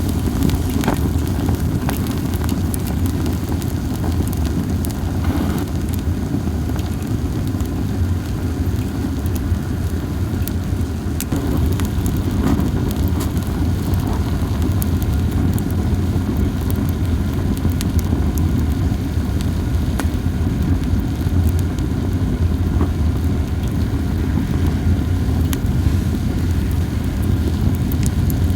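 Campfire of dried hinoki (Japanese cypress) cones burning, with a steady low rush and only scattered light crackles and pops.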